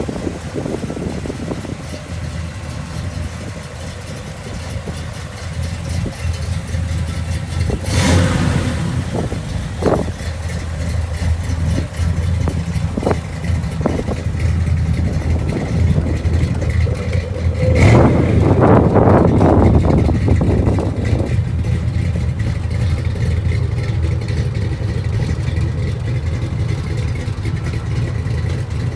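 The 1976 Cadillac Mirage's V8 engine idling steadily, with a sharp louder burst about eight seconds in and a louder stretch around eighteen to twenty-one seconds in.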